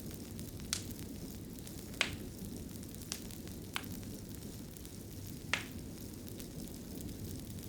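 Wood fire burning in a fireplace: a steady low rumble with sharp crackling pops, five in all, the loudest about two seconds and five and a half seconds in.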